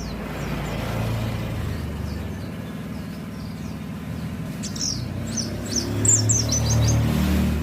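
White-eye (pleci) twittering in short, high chirps, with a quick run of them about five seconds in. Under it, the low rumble of passing road traffic swells toward the end.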